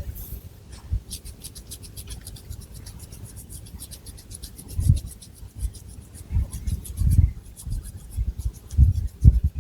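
Long fingernails scratching through thick hair on the scalp in quick rhythmic strokes, roughly ten a second, with soft low thumps mixed in during the second half.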